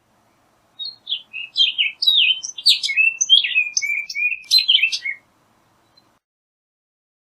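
Orchard oriole singing: one rapid, varied song of whistled and slurred notes lasting about four seconds, starting about a second in.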